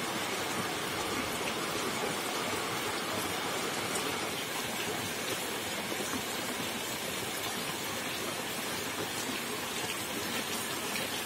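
Steady rain falling, an even hiss with occasional drops ticking.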